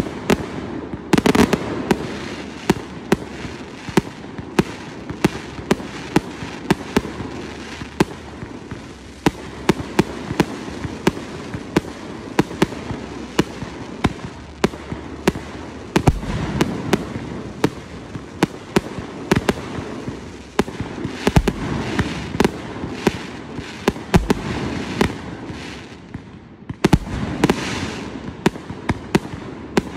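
Fireworks display: a dense, rapid run of sharp cracks and pops from bursting aerial shells, with several deeper booms spread through the second half.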